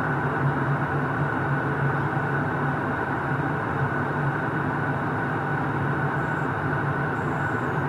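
Airliner cabin noise in flight: a steady rushing drone of engines and airflow with a low hum, unchanging throughout.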